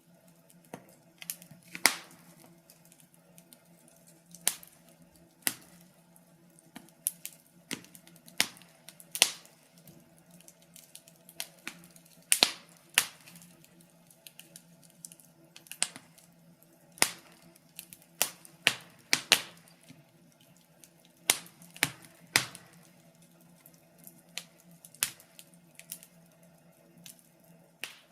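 Wood fire crackling: irregular sharp pops and snaps, a few each second at uneven intervals, over a faint low steady hum.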